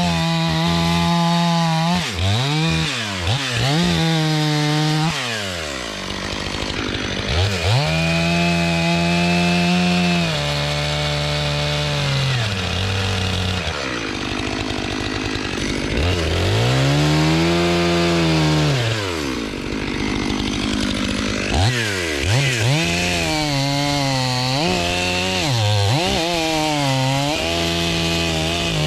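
Stihl MS500i fuel-injected two-stroke chainsaw bucking logs at high revs. Its engine pitch sags and recovers again and again, slowly in the middle and in quick repeated dips near the start and the end.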